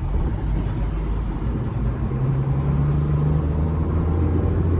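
Truck engine running while driving, a steady low drone that grows gradually louder.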